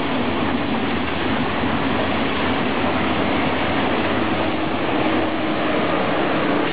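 ICE high-speed electric train passing at speed, a steady loud running noise of wheels on the rails.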